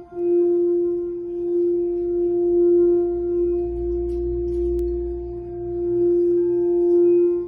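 Tibetan singing bowl sounding a sustained F note with a fainter overtone an octave above, its loudness slowly swelling and easing. The tone breaks off briefly right at the start and again near the end.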